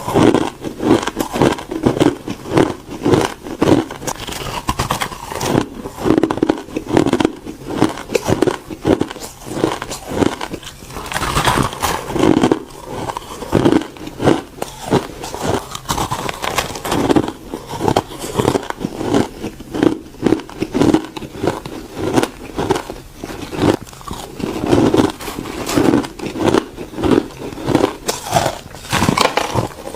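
Ice being bitten and chewed close to the microphone: a continuous run of sharp crunches and cracks.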